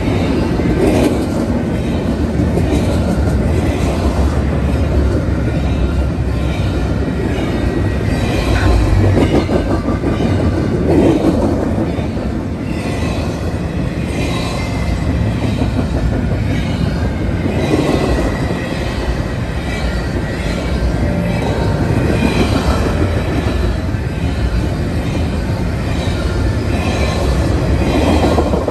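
Train rolling past: a steady rumble of wheels on rail, with a clatter that swells every few seconds.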